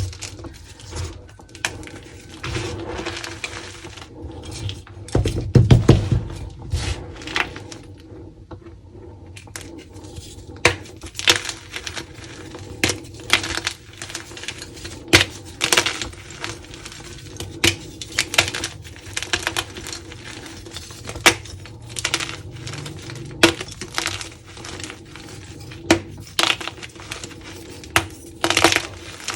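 Blocks of dyed gym chalk being crushed and crumbled by hand close to the microphone: a steady run of crisp crunches and cracks, with a heavier, deeper crunch about six seconds in.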